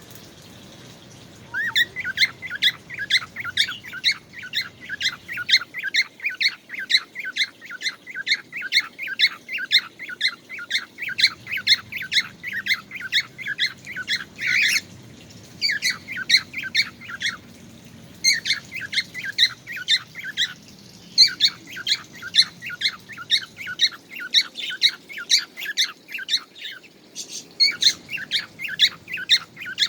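A bird calling in long runs of rapid, evenly spaced chirps, about four or five a second, with a few short breaks.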